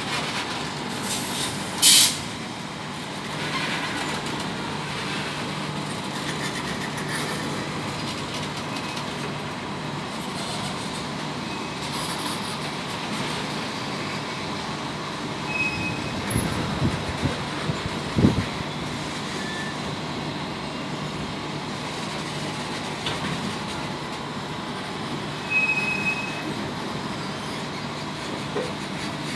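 Freight train of flat wagons carrying buses rolling slowly past with a steady rumble. There is a short loud burst of noise about two seconds in, a few clanks in the middle, and a couple of brief wheel squeals.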